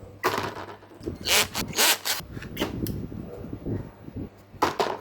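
Hand-tool scraping and rubbing in a few irregular strokes, loudest in the middle and near the end.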